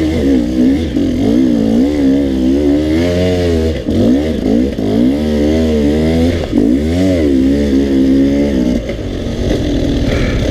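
Dirt bike engine under hard throttle on a trail climb, its revs rising and falling again and again, then dropping to a lower, quieter note about nine seconds in.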